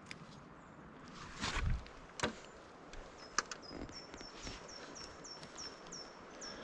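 Rustling and snapping in forest litter as someone moves through the woods, the loudest a crunch about a second and a half in, followed by two sharp snaps. From about four seconds in, a small bird calls repeatedly: a string of short, high notes, about three a second.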